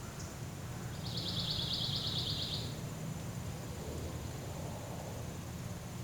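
Outdoor ambience with steady low background noise. About a second in, a single high, rapidly pulsed trill from a wild animal lasts a little under two seconds.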